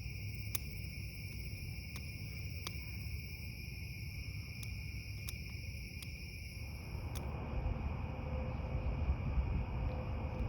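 Night chorus of crickets: a steady, unbroken high trill. A few sharp ticks stand out, and a low rumble on the microphone grows stronger in the second half.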